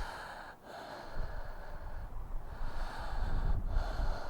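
Slow breaths close to the microphone, each lasting a few seconds with short breaks between them, over a low steady rumble.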